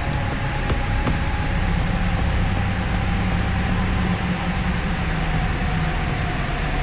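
Steady low rumble with an even rushing hiss, reverberating inside a concrete underground tunnel.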